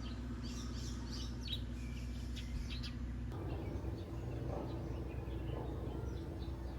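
Birds chirping in short calls over a steady low hum, with the background hum changing about three seconds in.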